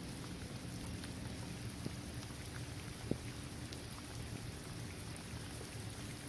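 Steady rain falling on a paved basketball court, trees and grass, with scattered ticks of single drops and one sharper drop about three seconds in.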